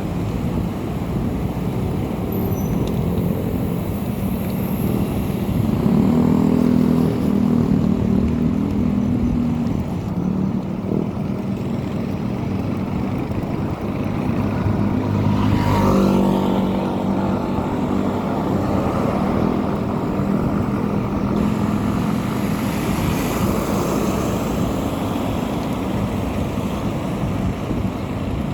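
Motor vehicle engine running over steady road and wind noise. The engine note swells and rises in pitch about six seconds in and again around sixteen seconds.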